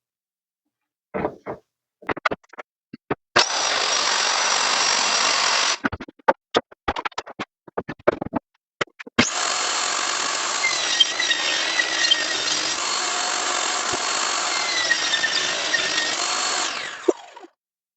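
Electric saw cutting 3/4-inch red oak plywood: a short cut, then a longer one about nine seconds in whose pitch dips twice under load before the blade winds down. Knocks and clicks from handling the sheet come between the cuts.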